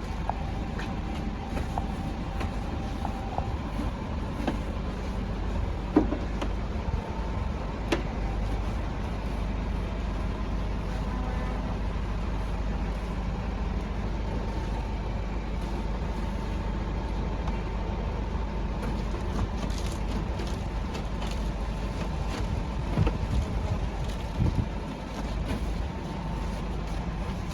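A motor running with a steady low rumble, with two sharp knocks about six and eight seconds in.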